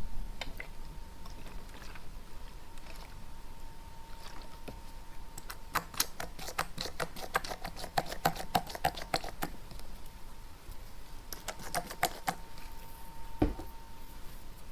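Quick light taps, about five a second, in a run of about four seconds, then a shorter burst of taps and a single soft thump near the end, over a faint steady hum.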